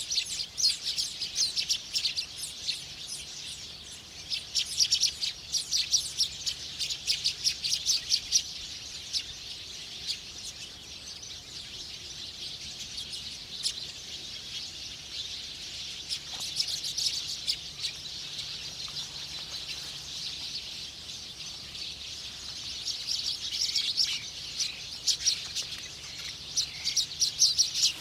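Small birds chirping in quick, high-pitched runs of short notes, busiest at the start and again near the end, with quieter spells between.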